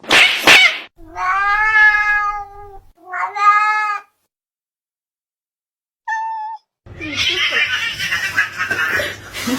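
A cat meowing: one long drawn-out meow about a second in, followed at once by a shorter one.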